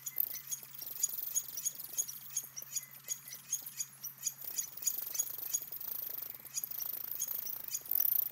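Outdoor pond ambience: a small bird calling with rapid high chips, about three a second, with a few brief whistled notes, over a faint steady hum.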